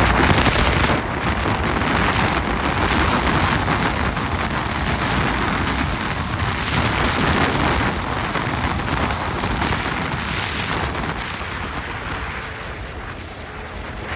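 Wind rushing over the microphone of a moving motorcycle, with the bike's running faint underneath; the rush eases off near the end.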